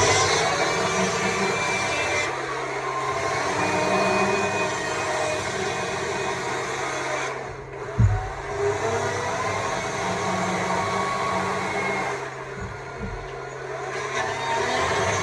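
Stihl MSA 200 C battery chainsaw running and cutting into wood, its electric motor whine rising and falling with the cut. It lets off briefly about seven seconds in, then a knock sounds as it comes back on.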